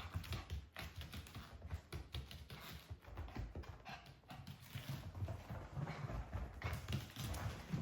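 Shiba Inu puppy moving about, making a run of small irregular clicks and taps over a low rumble.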